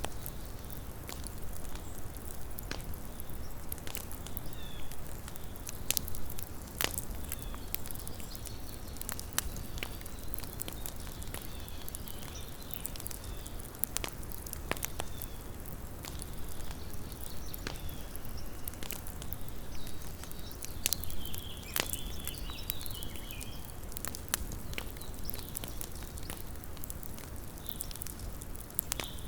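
Small campfire crackling: irregular sharp pops and snaps of burning wood, several a second at times, over a steady low hiss of the flames.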